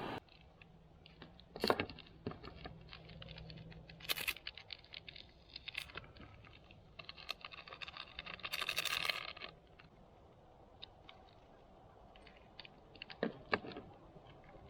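Light clicks, taps and rustling of small objects being handled close by. There is a longer, louder rustle about eight to nine seconds in.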